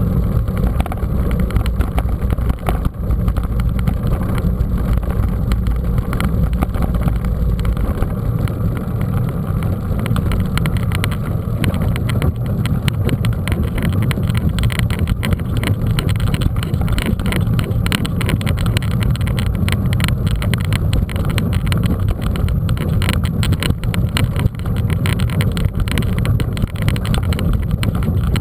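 Wind buffeting the microphone of a camera carried on a moving mountain bike, a steady low rumble, with the bike rattling over a rough dirt track.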